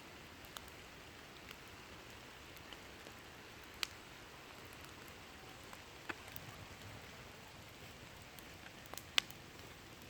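Campfire burning with a low hiss and scattered sharp crackles and pops of burning wood, three louder pops standing out, the loudest near the end.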